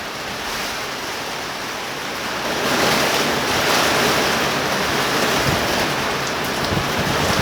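Torrential rain pouring down in a steady hiss, with gusting wind, swelling louder about two and a half seconds in.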